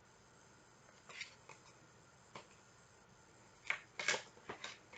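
Faint rustles and light taps of a picture book being handled and its page turned, with a small cluster of them near the end.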